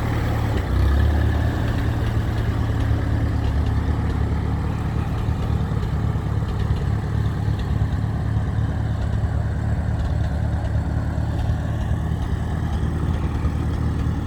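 Allis-Chalmers WD-45 tractor engine running steadily at low speed, a deep even drone that swells slightly about a second in.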